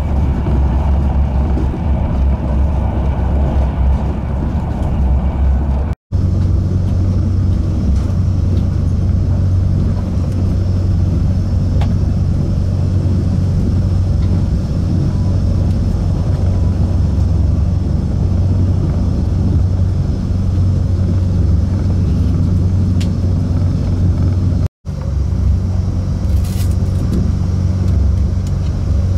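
Steady low running rumble of an ETR470 Pendolino electric train heard from inside the passenger car. The sound breaks off for an instant twice, about six seconds in and again near the end.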